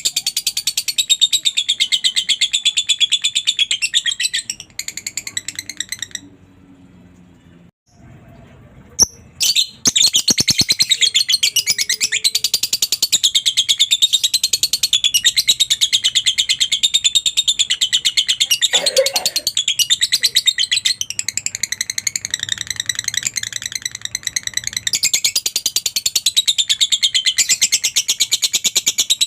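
Lovebird singing the long, very rapid chattering trill that keepers call "ngekek". It comes in two long runs with a pause of about two seconds between them.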